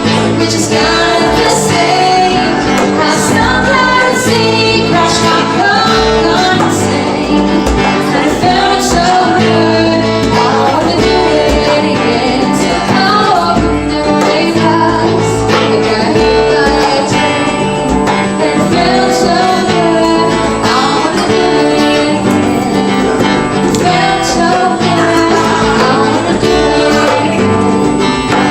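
Live acoustic band music: acoustic guitar strummed under a singing voice, with a steady beat.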